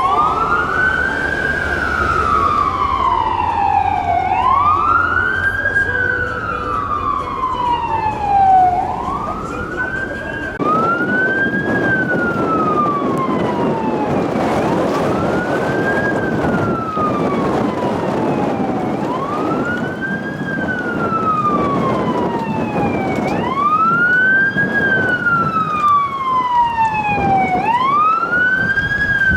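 Fire rescue truck's electronic siren on wail: each cycle rises quickly and falls slowly, repeating about every four seconds. Road and vehicle noise underneath grows louder about ten seconds in.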